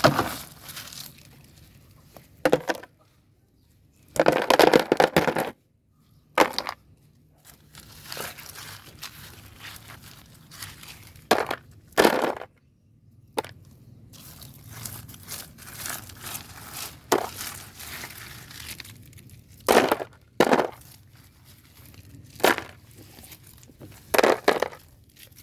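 Plastic toy vehicles being handled, with a dozen or so scattered sharp knocks and clatters and a longer rustling clatter about four seconds in.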